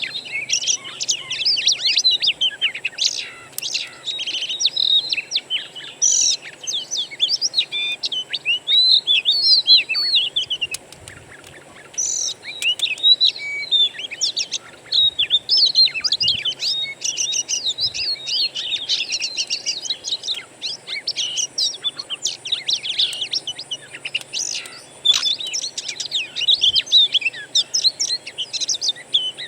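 Oriental magpie-robin (kacer) song: a rapid, varied stream of whistled and chattering phrases, nearly unbroken, with a short pause about eleven seconds in.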